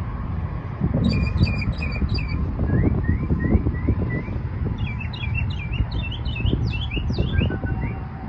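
Northern mockingbird singing, repeating each phrase several times before switching: a run of four chirps, then five rising slurred notes, then a quicker string of varied notes. A steady low rumble runs underneath.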